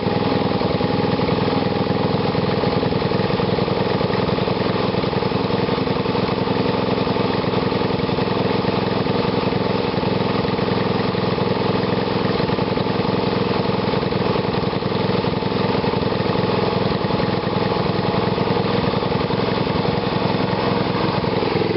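Small carburetted engine fed through a home-built GEET fuel reactor, running at a steady speed.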